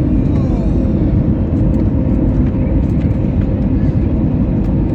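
Jet airliner cabin noise during landing: the steady, loud rumble of the engines and the airflow around the fuselage, heard from inside the passenger cabin, with a faint steady tone and a short falling whine shortly after the start.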